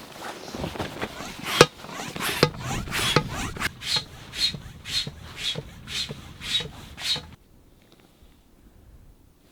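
Rhythmic scraping or rasping strokes, about two a second, that stop abruptly about seven seconds in.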